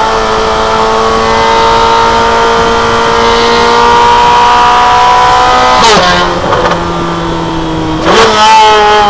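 C8 Corvette Z06's 5.5-litre flat-plane-crank V8 running through a valved titanium exhaust with high-flow cats, its pitch climbing slowly under light acceleration. About six seconds in the pitch drops sharply at an upshift with a short crack, and about two seconds later it jumps back up with a rev blip at a downshift.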